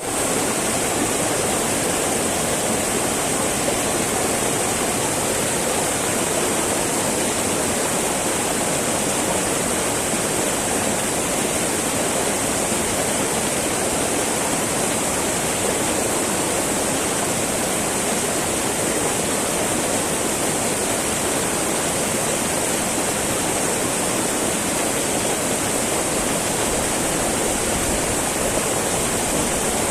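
Small mountain river babbling and rushing over stones: a steady, unbroken wash of flowing water.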